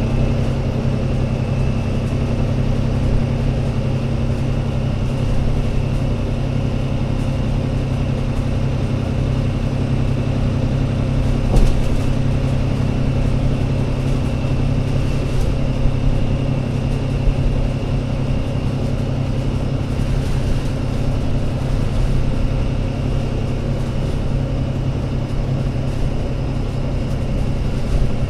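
ADL Enviro500 MMC double-decker bus's diesel engine running steadily with a deep even drone, a thin high whine over it and a few light knocks.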